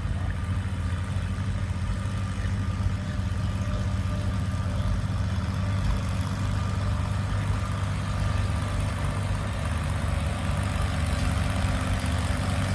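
Antique farm tractor engine running steadily while pulling a transfer sled, at an even pitch.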